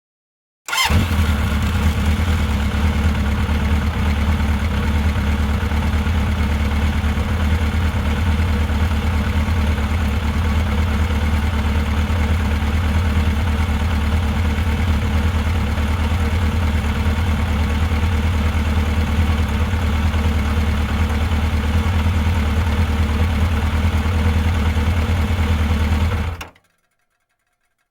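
Motorcycle engine idling steadily with a deep, even beat. It starts abruptly and cuts off suddenly near the end.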